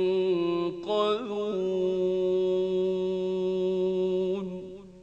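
Male voice in melodic Quranic recitation, holding one long drawn-out note. There is a short break and pitch turn about a second in, then the voice holds steady and fades out near the end.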